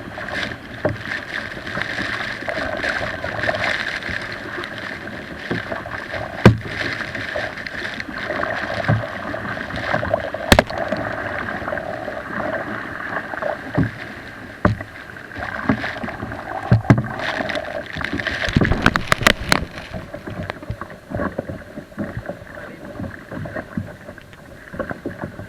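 Kayak on the move heard through an action camera sealed in its waterproof housing on a hull mount: a steady, muffled rushing of water carried through the kayak hull and the mount, with sharp knocks now and then and a quick run of them a little after halfway. The falls themselves barely come through the housing.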